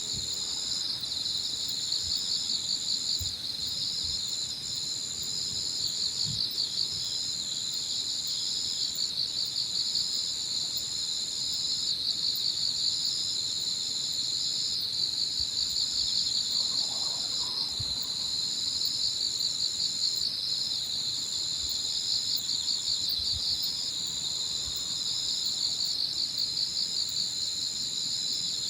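Autumn insects singing in chorus. One gives a steady high trill that breaks off briefly every second or two, and another gives a lower, rapidly pulsing chirring beneath it.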